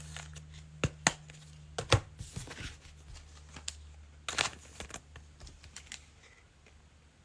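Hands handling trading card packs and wrappers: a few sharp clicks and taps, with crinkling wrapper plastic in the middle, over a steady low hum.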